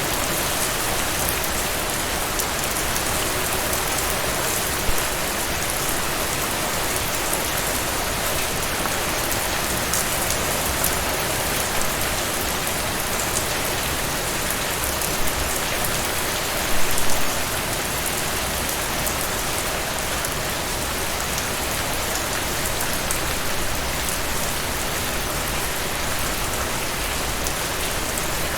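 Heavy rain falling steadily, a dense hiss with many separate drops striking surfaces. A few louder drop impacts stand out, the strongest about seventeen seconds in.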